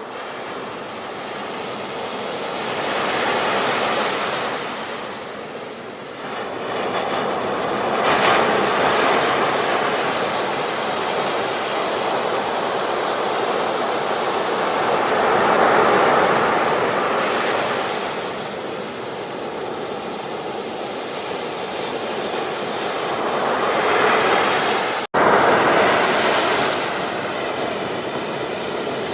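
Ocean waves breaking on a beach, the surf swelling and ebbing in slow surges every few seconds. The sound cuts out for an instant near the end.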